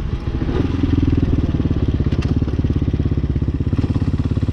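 Hawk 250 single-cylinder motorcycle engine running steadily under way, with a fast, even pulsing exhaust note.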